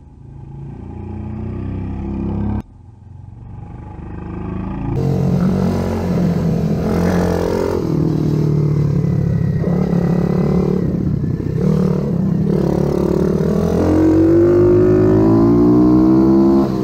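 Small pit bike engines running and revving, the pitch rising and falling as the throttle opens and closes. The sound cuts off abruptly twice in the first five seconds, and the revs climb high near the end.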